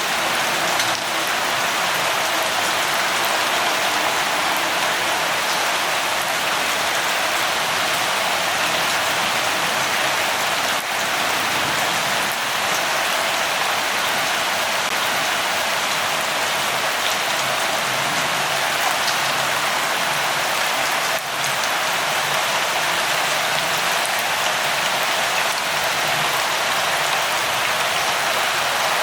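Light rain falling steadily: an even hiss of rainfall with a few scattered drop ticks.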